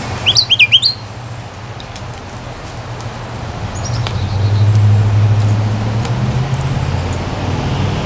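A songbird gives a quick run of about five sharp chirps, the loudest sound, within the first second, with a few faint chips later. Underneath runs a low traffic rumble that swells in the middle and eases off.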